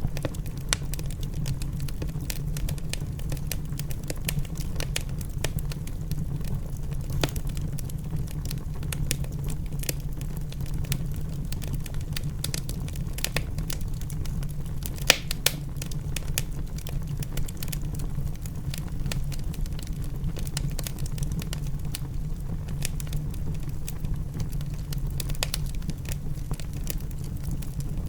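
Wood fire crackling in a fireplace, with irregular small pops and one louder pop about halfway through, over a steady low rumble.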